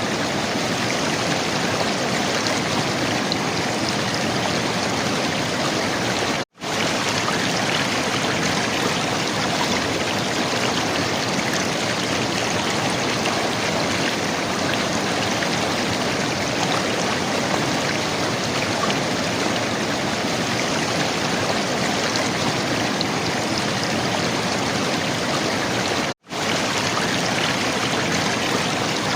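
River water gurgling, flowing steadily, cutting out for an instant twice: about six seconds in and near the end.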